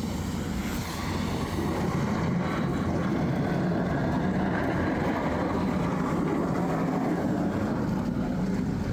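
Pickup truck running and moving, a steady rumble with road and plow noise that gets a little louder about a second in.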